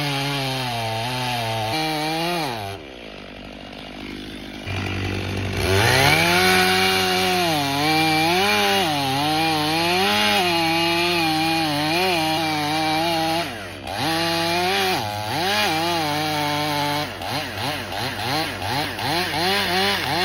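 Two-stroke chainsaw engine running and changing speed. It holds high revs, falls to a low idle about two seconds in, and revs back up about five seconds in, its pitch rising and falling as it cuts. Near the end come quick throttle blips, about three a second.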